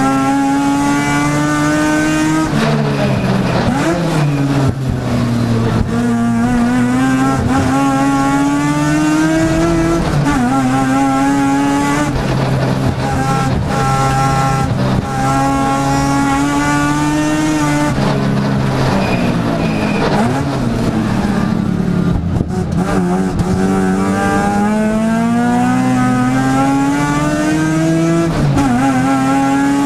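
Mazda RX-7 race car's two-rotor rotary engine, heard from inside the cabin, revving hard under racing load. Its pitch climbs steadily through each gear and drops away sharply at shifts and braking, several times over.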